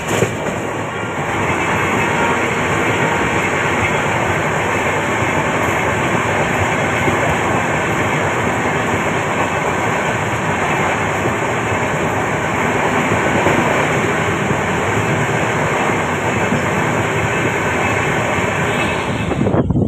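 Passenger express train running at speed, heard from the open doorway of a coach: a steady, loud rush and rumble of wheels on the rails.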